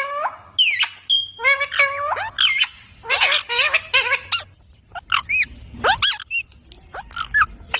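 Pet parrot chattering: a rapid run of short, high-pitched squawks and speech-like calls, with a brief lull about halfway through.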